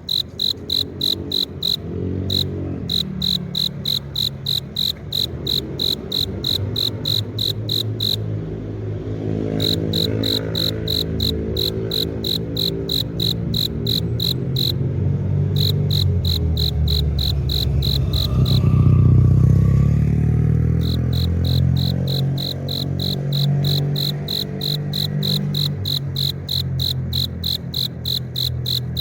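A male cricket chirping by rubbing its forewings together, a high calling song that attracts females, repeated at about three chirps a second with a few short pauses. A low hum runs underneath, loudest about two-thirds of the way through, while the chirping stops.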